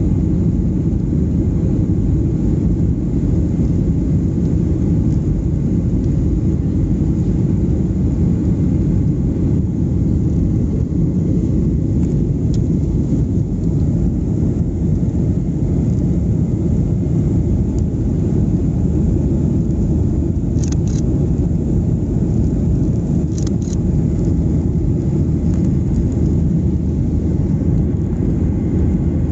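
Steady, loud low rumble of a Boeing 737-800 heard from inside the passenger cabin: engine and airflow noise of the airliner under way. A couple of faint ticks sound about two-thirds of the way through.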